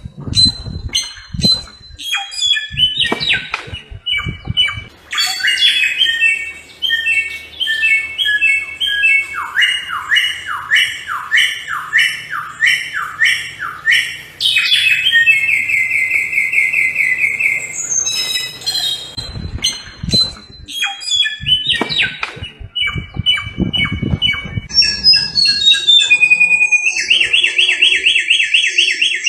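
Samyong songbird singing a loud, varied song: quick runs of repeated notes and fast trills, with a couple of short pauses.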